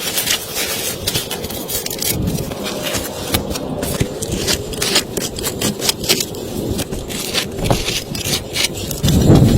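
Rain pattering on a tent's fabric, heard from inside the tent: many irregular sharp drop taps over a steady hiss. Just before the end, a louder low rumble joins in.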